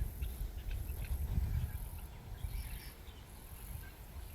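Insects calling outdoors, a high shrill chirring that pulses on and off about twice a second, over a low uneven rumble.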